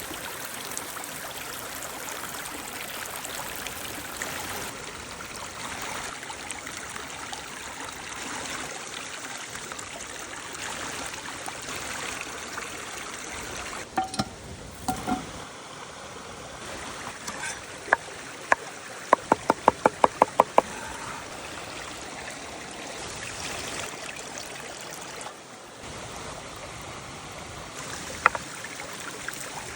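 Steady rush of a stream. About halfway through come a couple of knocks, then a quick run of about ten sharp knocks, and one more knock near the end.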